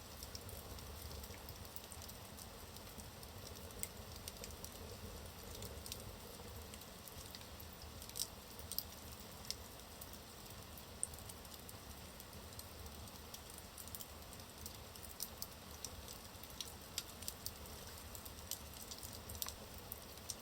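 Logs burning in a fireplace: a faint, steady low rustle of the fire with scattered sharp crackles and pops, coming more often in the second half.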